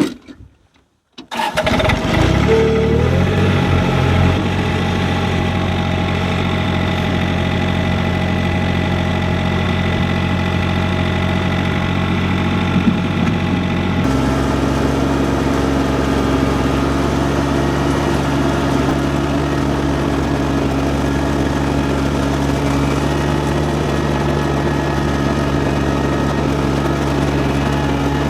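Three-cylinder diesel engine of a John Deere compact tractor running steadily while working a snowblower. It comes in suddenly after a second or so of near silence, and its note changes abruptly about halfway through.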